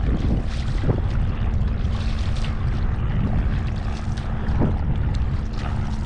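Wind rumbling on the microphone over moving water during canoe paddling, with a few brief splashes.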